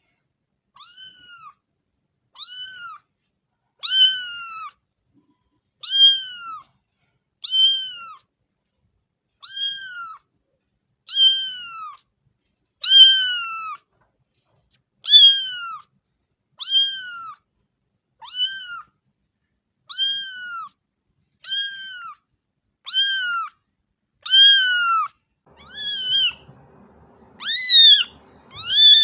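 A cat meowing over and over, short high meows about once a second, each rising then falling in pitch. Near the end a faint low background noise comes in and the last meows are louder.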